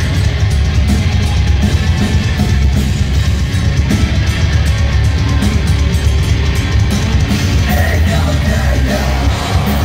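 Live heavy metal band playing loud and fast, with distorted guitars, pounding drums and bass, and possibly shouted vocals.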